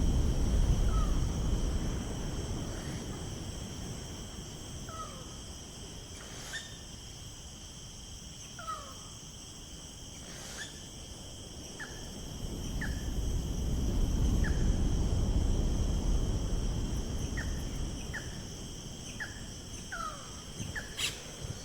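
Nature ambience: a steady high insect trilling chorus, with short descending bird chirps scattered through it and a low rumble that swells and fades in the middle.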